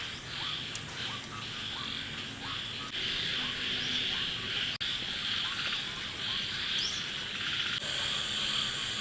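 A steady insect chorus makes a continuous high trill, with short rising frog calls repeating over it, most often in the first few seconds.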